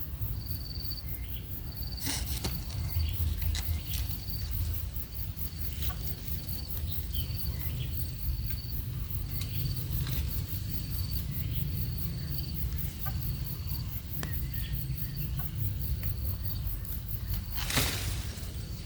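Short high-pitched chirps repeating about once a second at an even pace, over a steady low rumble. A sharp rustle or knock about two seconds in and a louder one near the end.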